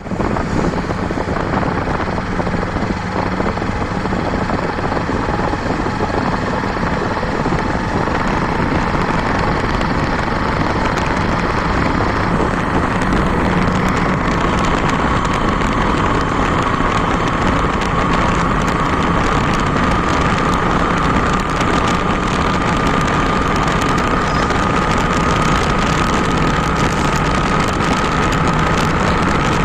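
Motorcycle engine running steadily during a ride, mixed with a constant rush of noise. A faint engine tone climbs slowly in pitch over the second half.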